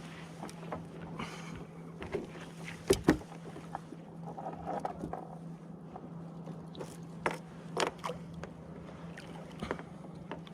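Scattered small knocks and clicks of fishing gear and hands on a kayak, loudest a quick pair about three seconds in, with water lapping at the hull and a steady low hum underneath.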